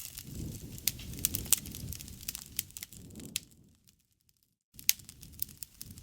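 Wood fire burning: sharp crackles and pops over a low rumble of flames. The sound drops out to silence for about a second past the middle, then resumes with a loud pop.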